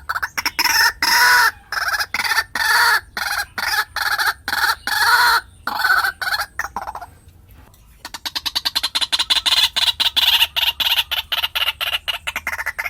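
White-breasted waterhen calling, used as a decoy call to lure waterhens: loud harsh notes repeated about twice a second. After a short break about seven seconds in comes a fast chatter of quick, higher notes.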